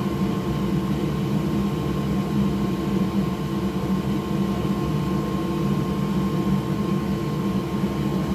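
Steady whir of an electric blower fan, with a thin steady high tone over a low hum and no change in level.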